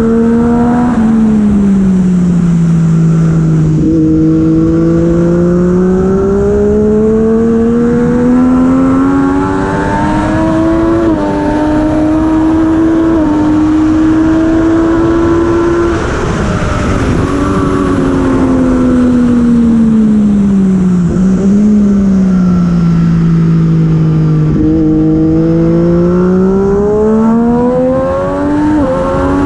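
Heavyweight superbike engine at racing speed, its note falling off while slowing, then climbing hard again under throttle, several times over. Sudden small jumps in pitch mark gear changes.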